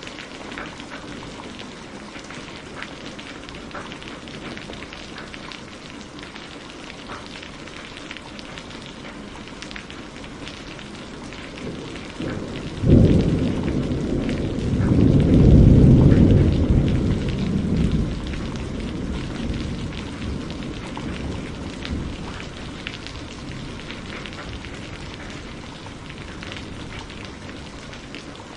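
Steady rain falling, with a roll of thunder about halfway through that starts with a sudden crack, swells into a deep rumble and fades over several seconds.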